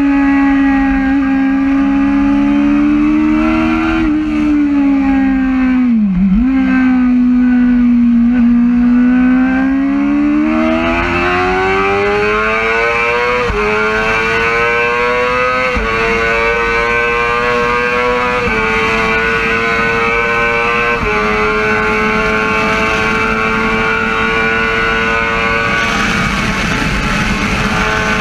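2011 Yamaha R6 inline-four sport bike engine at high revs on track, heard from onboard with wind rush. The revs dip sharply about six seconds in, then climb again. The pitch jumps in four abrupt steps as it changes gear, then holds a steady high note.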